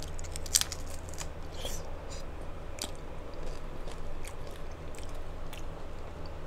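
Close chewing of a bite of hard-shell taco, with irregular sharp crunches of the crisp shell. The loudest is about half a second in, and softer crackles follow every second or so.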